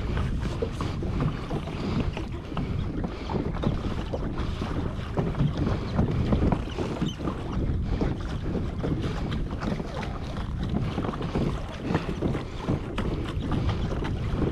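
Water splashing and rushing along a kayak's hull as it trolls over open sea, with wind buffeting the microphone.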